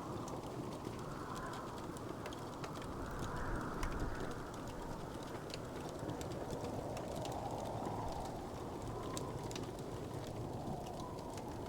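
Wood fire burning in a fireplace, crackling with many small, irregular pops over a steady low rushing that swells and fades every second or two.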